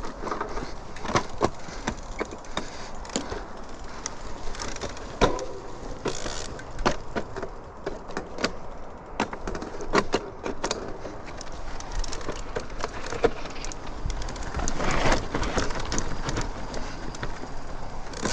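Mountain bike rolling over a rough dirt trail, with a steady rush of tyre and trail noise and many irregular knocks and rattles from the bike jolting over bumps and ruts.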